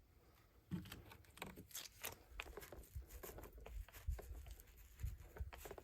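Faint, irregular soft taps and crackling rustles of resin being worked into fiberglass cloth on a drum shell, starting about a second in. This is the wetting-out of the cloth, pressing resin through until no white, dry spots remain.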